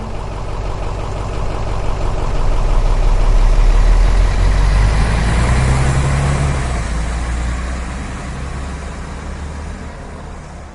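VW Samba bus's air-cooled flat-four engine running. It grows louder to a peak about four seconds in, then fades away, as the bus passes and drives off.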